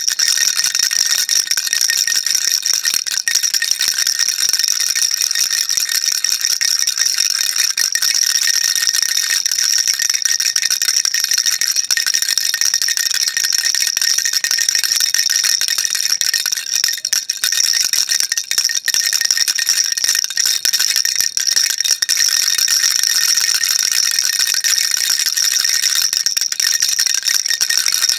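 Baby rattle being shaken continuously, giving a dense, steady, high-pitched rattling without pauses.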